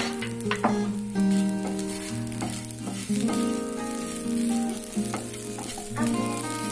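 Idli cubes sizzling as they fry in a nonstick pan, with a few sharp knocks of a spatula against the pan in the first second. Background music plays throughout.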